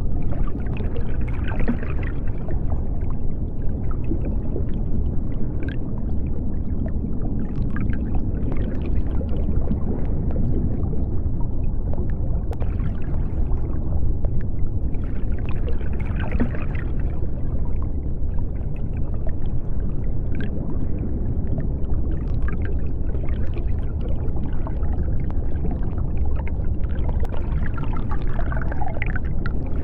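Underwater sea ambience: a steady deep rumble with higher washes of sound that swell and fade every few seconds.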